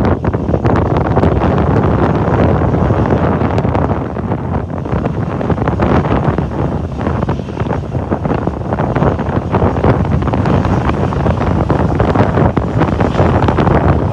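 Strong, gusty typhoon wind buffeting the microphone in a loud, rumbling rush that swells and eases.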